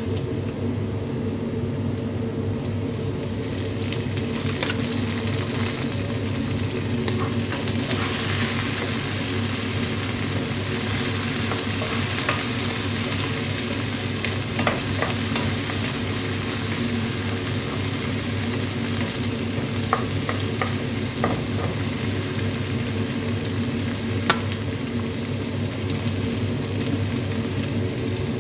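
Chopped onion and tomato sizzling in oil in a nonstick frying pan while a wooden spatula stirs them, with a few sharp taps of the spatula on the pan. The sizzle grows stronger about a third of the way in. A steady low hum runs underneath.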